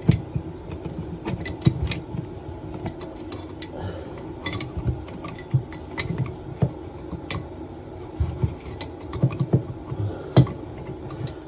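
Scattered small metallic clicks and clinks of hand tools and plumbing fittings being handled during a toilet supply valve swap, with one sharper knock about ten seconds in, over a steady low hum.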